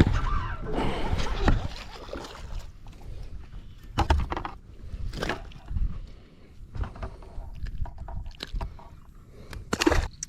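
Water sloshing against a small boat, loudest in the first couple of seconds, with a few sharp knocks about four, five and ten seconds in.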